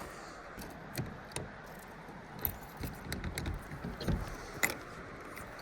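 Irregular light clicks, metallic clinks and a few soft knocks of gear being handled and shifted, like small buckles or metal parts jangling.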